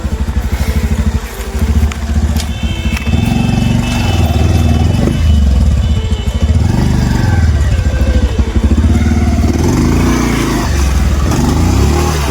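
Bajaj Pulsar 150's single-cylinder engine revving up and down repeatedly as it pulls the motorcycle through soft ploughed soil, a test of its power.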